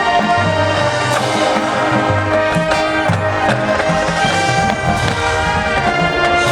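Marching band playing: brass holding sustained chords over pulsing low notes, with occasional sharp percussion hits.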